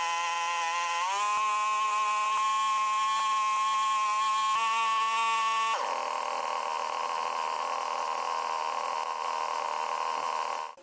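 A motor running at a high, steady pitch, stepping up twice early on. About six seconds in it changes to a rough rasping noise, which stops abruptly.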